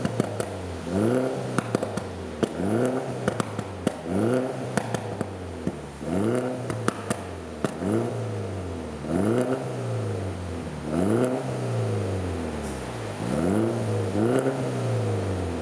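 Mini Cooper S R59's turbocharged four-cylinder engine, through an aftermarket MENGHEADER exhaust, revved up and let fall back again and again, about every one and a half to two seconds, with sharp crackles and pops from the exhaust between the revs.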